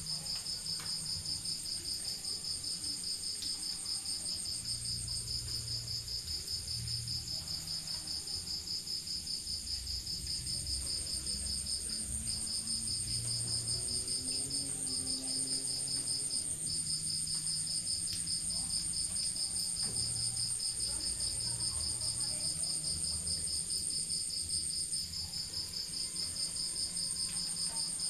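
Crickets chirping in a continuous fast-pulsing high trill, broken off briefly a few times midway, over a faint low rumble.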